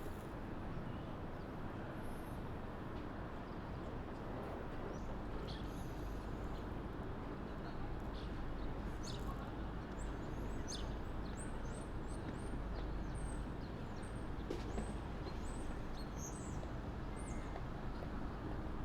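Small birds chirping, many short high chirps, often falling in pitch, coming thick from about a quarter of the way in until near the end, over a steady low background rumble.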